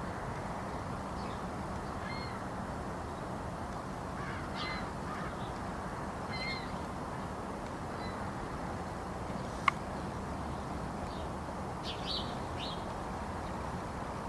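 Crows cawing off and on, several short calls spread over a steady low background noise. A single sharp click about two-thirds of the way through stands out above everything else.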